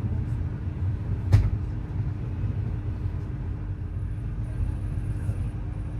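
Moving passenger train's low, steady running rumble with a constant hum, and one sharp knock about a second and a half in.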